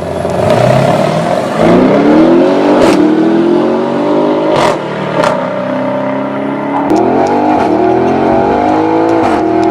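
Audi RS6's 4.0-litre twin-turbo V8 through an IPE valved aftermarket exhaust, accelerating hard: the note climbs in pitch, drops back with a few sharp cracks about four and a half seconds in, then climbs again on a second pull.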